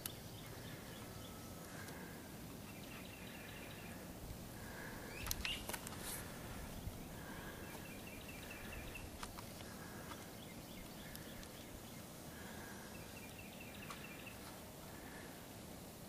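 Faint bird calls: short notes repeated about once a second, with a few quick trills higher up, over steady outdoor background noise. A brief rustle or knock about five seconds in.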